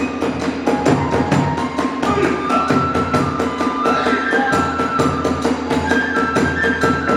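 Hiroshima kagura accompaniment: a rapid, even beat of drum strikes with small hand cymbals clashing, under a bamboo flute playing held notes that step up and down.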